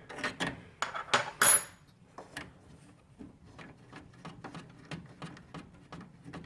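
A metal wrench clinking against the brass supply-line nut on a refrigerator water inlet valve as the nut is loosened. A few sharp, louder clinks come in the first two seconds, followed by a run of faint, light ticks.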